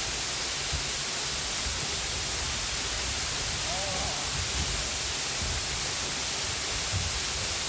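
Waterfall's steady rushing hiss of falling water, with low irregular rumbles underneath.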